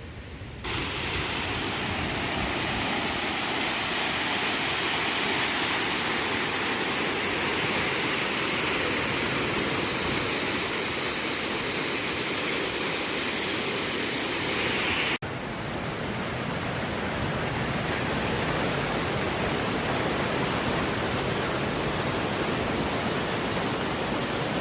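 Waterfall: a loud, steady rush of falling water. It jumps louder about half a second in and cuts out for a moment around the middle before carrying on.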